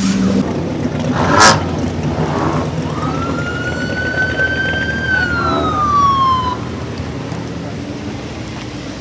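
Car engines rumbling, with a sharp bang about a second and a half in. Then a single clear wail climbs slowly for a couple of seconds and falls away.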